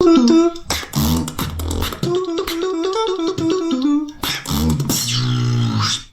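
Tag-team beatboxing: a duo layering a sung melody over vocal bass and sharp mouth-percussion hits. It stops abruptly near the end.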